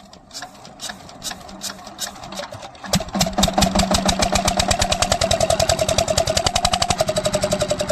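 Lister-type diesel engine on an irrigation water pump being cranked, slow clicks speeding up, then catching about three seconds in and running with a rapid, even beat.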